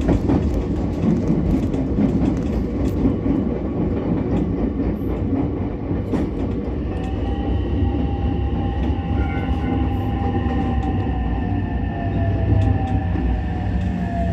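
Ichibata Electric Railway 7000-series electric railcar running on the rails, heard from inside the car: a steady low rumble with scattered clicks from the wheels and track. About halfway through, an electric motor whine starts and slowly falls in pitch as the train slows.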